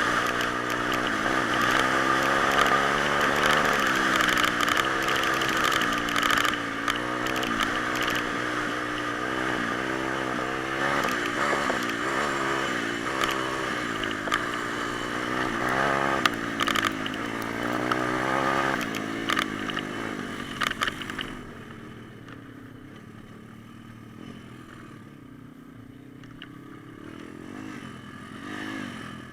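Pit bike engine revving up and down as it is ridden, its pitch repeatedly rising and falling, with scattered knocks and rattles. About twenty seconds in the engine sound drops to a faint drone, which swells briefly near the end.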